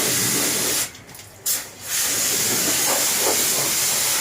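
High-pressure water spray hissing from a washing nozzle during air-conditioner cleaning. It cuts out briefly about a second in, with one short spurt, and starts again just before two seconds.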